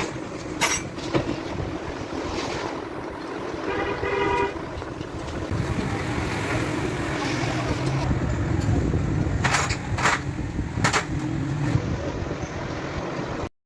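Steady low vehicle rumble with a vehicle horn tooting once, briefly, about four seconds in, and a few sharp clicks and knocks; the sound cuts off suddenly near the end.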